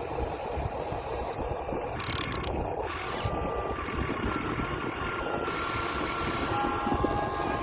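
Electric motors and plastic-and-metal gearboxes of radio-controlled model excavators whirring and rattling as they work, with a thin whine that changes pitch a few times as the operator shifts between functions.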